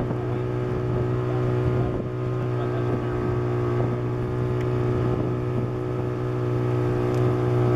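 Motorboat engine running steadily, a constant drone that holds the same pitch throughout.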